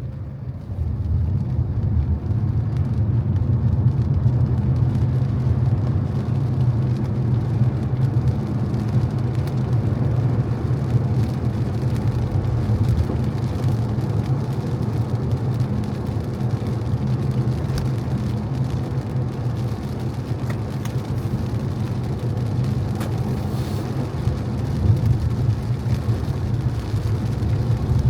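A car driving on wet streets: a steady low rumble of engine and road noise, with a hiss above it. It gets louder about a second in.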